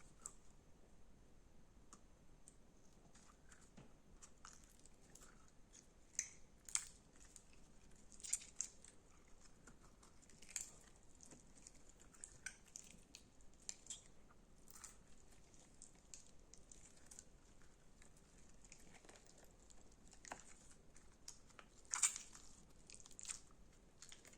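Slime being squeezed and pressed by hand: faint, scattered little crackles and pops, a few louder ones around a quarter of the way in and one loudest pop near the end.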